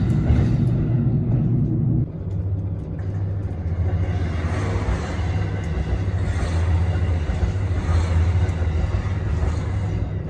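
Trains running past on the track: a loud low rumble. It changes abruptly about two seconds in to a steady low hum, with wheel and track noise swelling in the middle and easing off toward the end.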